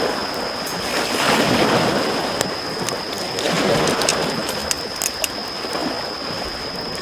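Small sea waves washing onto the shore in slow surges, with a wood campfire crackling in sharp pops over them.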